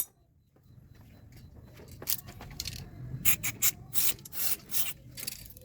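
A sharp click, then from about two seconds in a run of short, irregular rasping scrapes, a few strokes a second: hand metalwork on a damaged thread.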